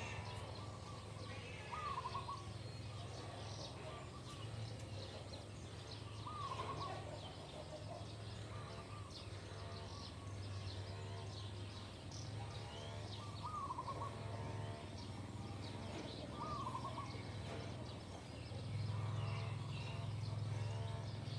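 Birds chirping and calling, with one short call repeating every few seconds, over a low hum that comes and goes.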